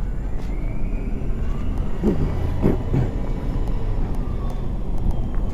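Road traffic: a vehicle running with a steady low rumble. A faint whine rises and falls over a few seconds in the middle.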